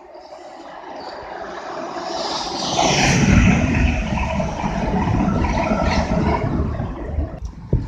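Electric multiple-unit passenger train running past below the bridge: its wheel-on-rail rumble swells as it approaches, is loudest about three seconds in with a falling hiss as it passes, then carries on as an uneven low rumble while the carriages go by.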